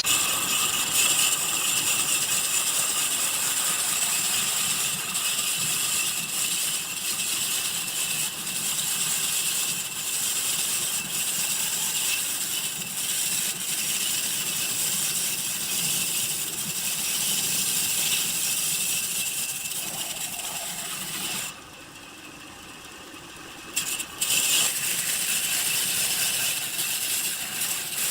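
A woodworking machine cutting wood, a steady hissing, rattling cut. It drops away for about two seconds near the end, then starts again.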